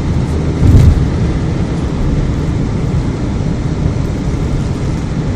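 Car driving on a highway: a steady low rumble of engine and tyres, with one brief louder thump a little under a second in.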